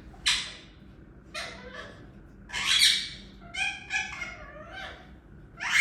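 Pet parrot giving a series of harsh squawks and short calls, the loudest about three seconds in.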